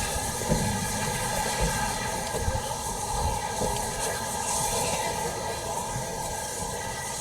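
Railway train running, a steady rumble with a hiss over it.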